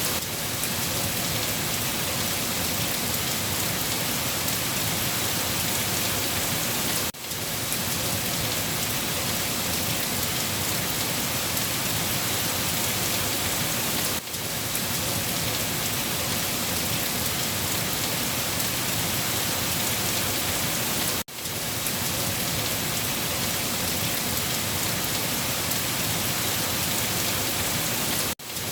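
Steady rain falling, an even hiss of drops with no pauses, which dips briefly about every seven seconds.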